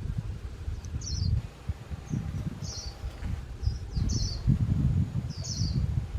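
White-eyes giving short, high twittering calls, repeated about once a second, over a low rumble.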